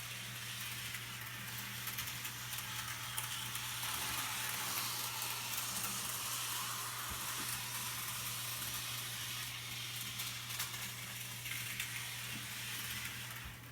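HO scale model locomotive running a lap of the track: a steady hiss of its electric motor and wheels on the rails. It stops near the end.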